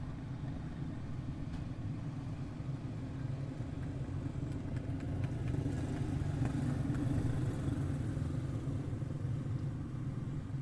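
A field of quarter midget race cars with single-cylinder Briggs & Stratton Animal engines running laps, a steady engine drone that swells about halfway through as the cars come closer, then eases.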